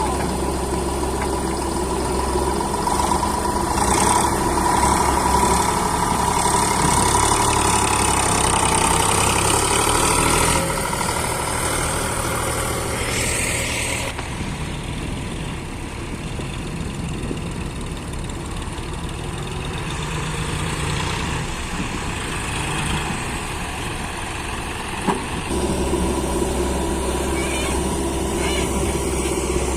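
Heavy diesel machinery running steadily, its engine note shifting as it works, quieter through the middle and picking up again near the end, with one sharp click partway through.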